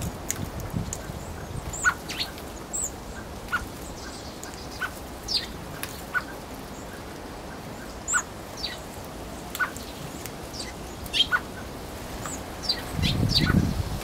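Short, sharp high-pitched bird calls at irregular intervals, a dozen or more, with a low rumbling noise rising about a second before the end.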